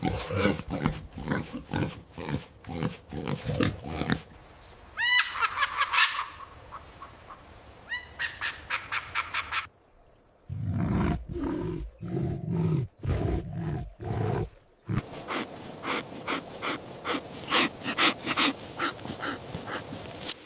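Recorded animal calls in several separate stretches: quick runs of repeated grunts and calls, with a stretch of higher, rising calls about five to ten seconds in and a short break just before ten seconds.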